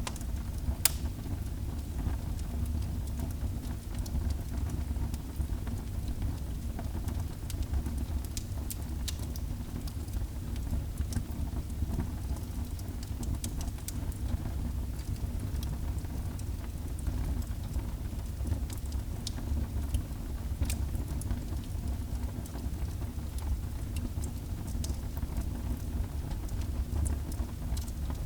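Wood fire burning in a fireplace: a steady low rumble of flames with scattered sharp crackles and pops, one louder pop about a second in.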